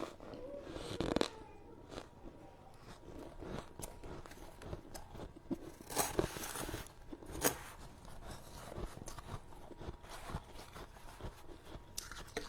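Soft freezer frost crunching and crackling up close: a steady run of small crisp crackles, with louder crunches about a second in and again around six to seven and a half seconds in.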